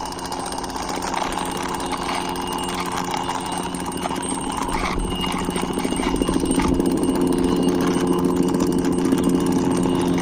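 Toy police helicopter running: a steady buzzing whir with a fast, even chopping flutter like a rotor, growing louder about six seconds in.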